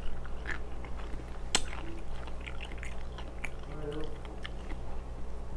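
Close-miked mouth sounds of chewing crisp cucumber dipped in sauce: soft wet crunches and smacks, with one sharper click about a second and a half in.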